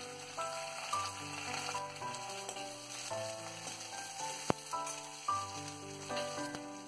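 Oil sizzling steadily as small onions, dried red chillies and urad dal fry in a steel kadai, stirred with a ladle, with one sharp click about four and a half seconds in. Background music with slow held notes and a bass line plays along.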